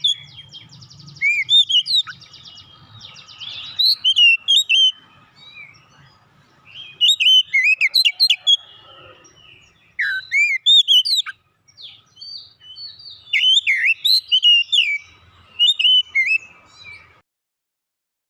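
Oriental magpie-robin (kacer) singing: loud bursts of varied, sweeping whistled notes and chirps, broken by short pauses, falling silent near the end.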